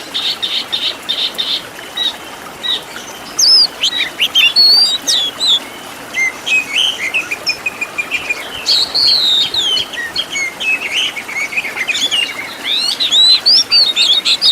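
Oriental magpie-robin song, a varied run of loud whistled glides and sharp chirps. It opens with a fast repeated trill for about a second and a half.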